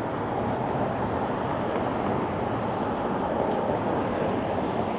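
Steady rushing noise of road traffic on a city street, even throughout with no single vehicle standing out.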